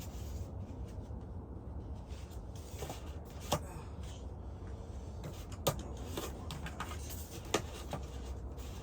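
Three sharp knocks and clatters of gear being handled while rummaging through a container, about two seconds apart, over a steady low rumble.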